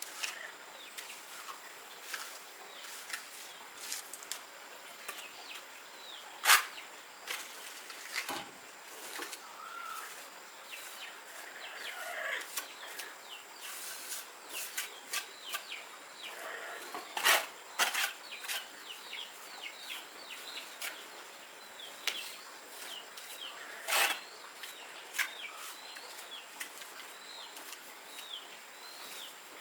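Birds chirping in short, falling calls, busiest in the second half, with a few sharp knocks, loudest about a third of the way in, just past halfway and again later.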